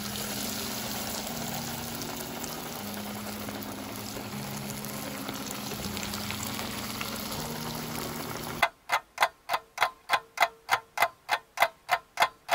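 Potato-coated Korean corn dog sizzling as it fries in a pot of hot oil. About three quarters of the way through, the sizzle cuts off and a ticking clock takes over, about four ticks a second.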